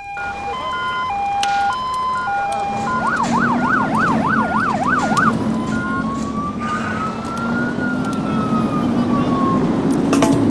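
Electronic siren cycling through its tones: a stepped hi-lo two-tone for about three seconds, then a fast up-and-down yelp for about two seconds, then one slow wail that rises and falls. A low steady hum and background noise run underneath.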